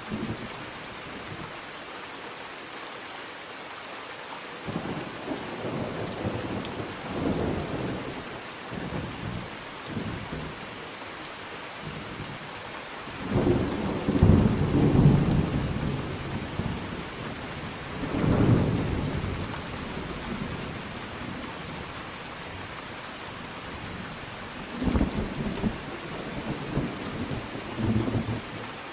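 Thunderstorm: steady rain hissing throughout, with repeated rolls of thunder. The loudest rumble comes about halfway through, with weaker ones before it and near the end.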